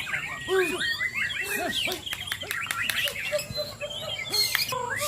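Several white-rumped shamas singing at once in competition: a dense, overlapping stream of quick whistles, rising and falling sweeps and chirps.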